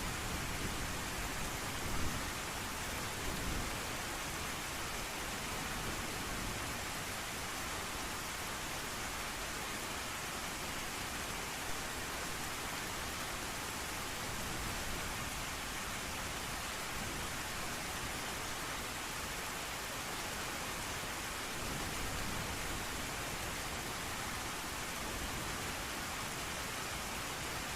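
Steady heavy rain, a dense even hiss, with a low rumble of distant thunder in the first few seconds.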